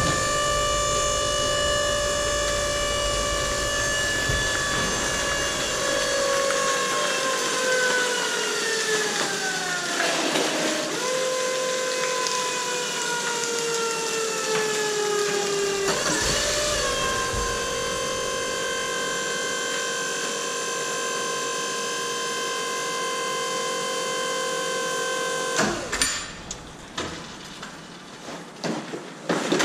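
Mini baler's hydraulic pump motor running with a steady whine that sags lower in pitch as the ram presses down on PET plastic, dipping deepest about ten seconds in and sagging again before it steadies. The whine stops about four seconds before the end, followed by a few clicks and knocks.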